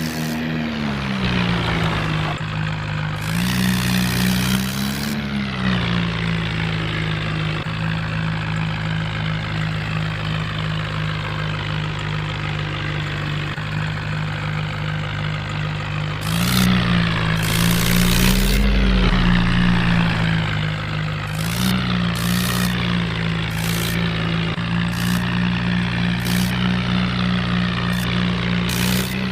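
Tractor engine sound running steadily at a low idle, its pitch dipping and rising briefly a few times and getting louder for a few seconds past the middle, with short bursts of hiss recurring over it.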